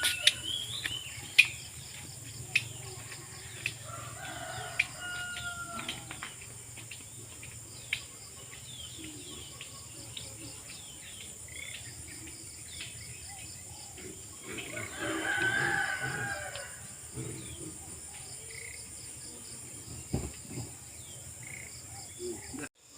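A rooster crowing twice: a fainter crow about four seconds in and a louder one about fifteen seconds in. Under both runs a steady high insect drone, with scattered small clicks.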